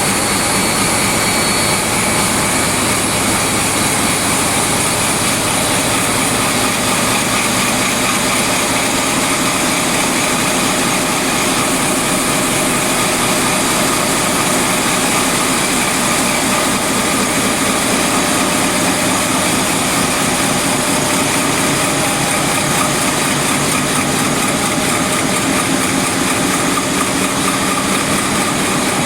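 Loud, steady rushing hiss of a big steam leak in an engine room, mixed with the steady running of engine-room machinery.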